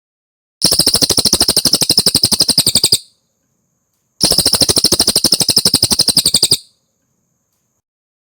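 Cililin bird singing a rapid, even trill of about fifteen notes a second, twice, each trill lasting over two seconds with a pause of about a second between.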